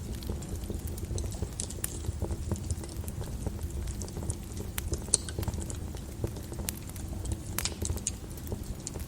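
Wood fire crackling in a fireplace: a steady low rumble of burning with frequent sharp pops and snaps, a few louder ones about five seconds in and again near the end.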